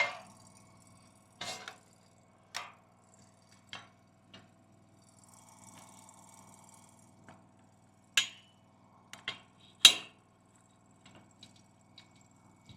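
Steel picket stock being handled against a steel gate: scattered metal-on-metal knocks and clinks with a short ring. The two loudest come a little after halfway.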